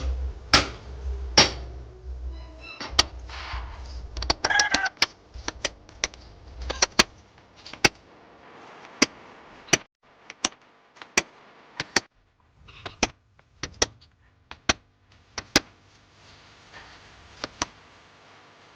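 Sharp metallic taps and clicks at irregular intervals, roughly one a second and sometimes in quick pairs, from tools and steel parts of a motorcycle steering-head ball race being handled and worked.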